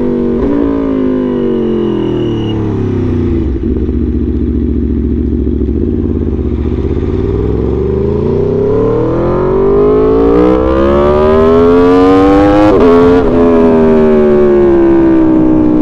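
Aprilia Tuono V4 motorcycle's V4 engine on the road. Its note falls as it slows, runs low for a few seconds, then climbs steadily under acceleration. About three quarters of the way through there is a brief break in the climb, and then the note falls away gradually as it slows again.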